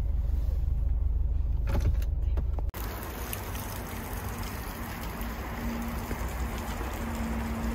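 A steady low rumble that cuts off abruptly almost three seconds in, giving way to an even, steady hiss with a faint hum in the background.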